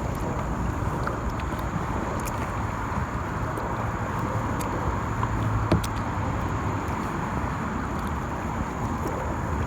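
Steady rumble of car traffic crossing a road bridge overhead, heard from beneath it on the river. A few faint ticks sound through it.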